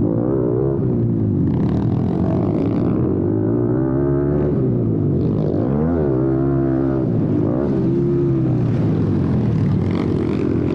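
Several small single-cylinder four-stroke pit bike engines of about 110cc revving. The pitch rises and falls repeatedly with throttle and gear changes, with overlapping engine notes.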